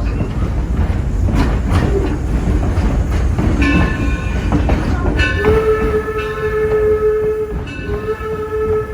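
Steam locomotive running with a low rumble, its whistle starting faintly a few seconds in, then blowing a long steady blast from about halfway, with a brief break and a second long blast.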